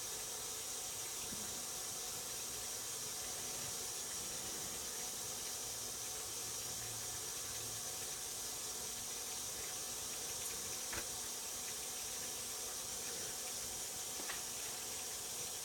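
Steady hiss of water running into a top-load washing machine's tub, with a couple of faint clicks.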